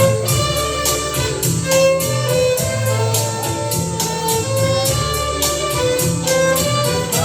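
Violin playing a melody of held notes over a backing track with a bass line and a steady beat.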